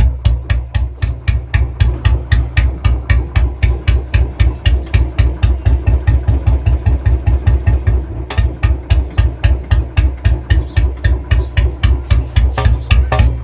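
Royal Enfield Bullet single-cylinder engine running at low rpm with a heavy, evenly spaced thump, about four to five beats a second, the old-Bullet sound got without a manual decompressor or sound kit.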